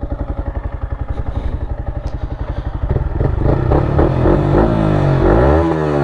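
Yamaha MT-15's single-cylinder engine through a replica Akrapovic R1M full-system exhaust, idling with an even pulse, then pulling away about halfway in: the revs rise, drop at a gear change near the end, and rise again.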